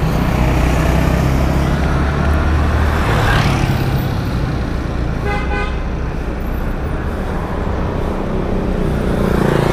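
Yamaha RX-King two-stroke motorcycle engine running steadily amid road traffic noise. A vehicle horn toots briefly about five seconds in.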